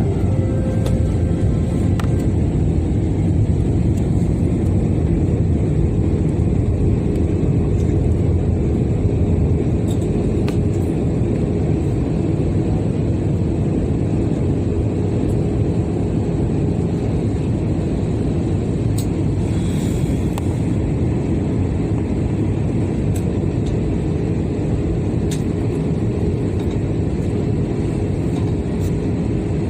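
Steady low rumble of an Airbus A320's engines and airflow heard inside the cabin, with a faint constant tone over it.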